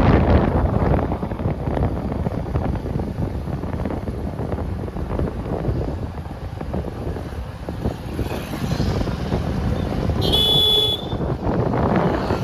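Wind rushing over the microphone with road and traffic noise from a motorcycle ride. About ten seconds in, a vehicle horn sounds once, briefly.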